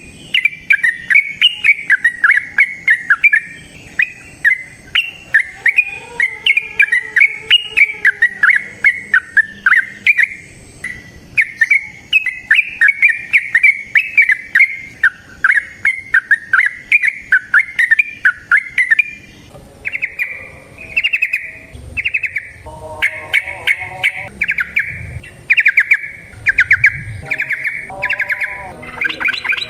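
Yellow-vented bulbul (trucukan) singing its long, rapid bubbling 'ropel' song. About two-thirds of the way through, the continuous chatter breaks into separate short bursts of notes.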